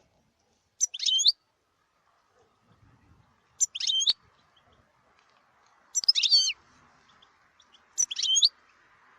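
European goldfinch calling: four short twittering phrases, each about half a second long, spaced roughly two seconds apart.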